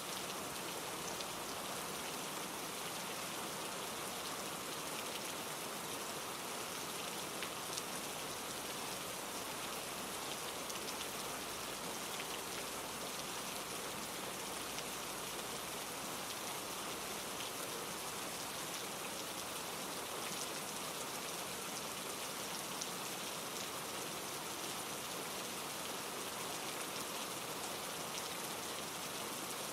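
Steady rain falling through trees, with many small drop ticks, over the rushing of a mountain stream tumbling over rocks.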